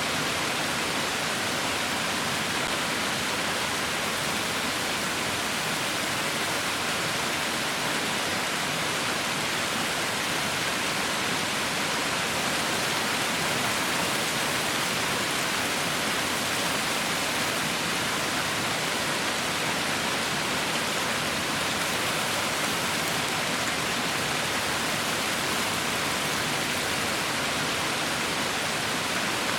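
Heavy rain falling as a steady, even hiss, with no single drops or thunder standing out.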